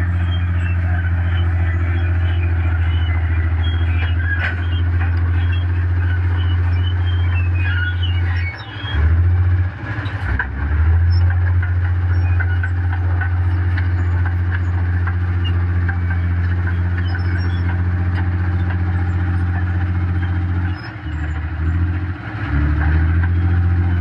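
Mitsubishi dump truck's diesel engine running steadily at a loud, even hum. The engine note dips and shifts briefly twice, about nine seconds in and again near the end.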